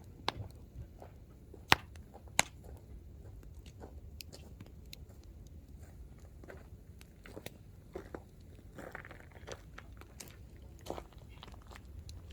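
Hardwood firewood burning in an open campfire, crackling with scattered sharp pops over a low steady rumble of flame; two louder pops stand out about two seconds in.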